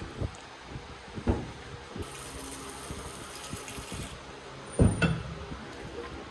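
Workshop handling sounds during fork work: a few sharp knocks of parts or tools, the loudest pair near the end, and a hiss lasting about two seconds in the middle.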